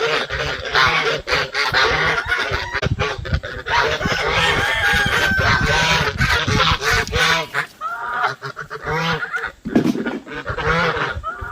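A flock of farm poultry calling loudly and without pause, many pitched calls overlapping one another.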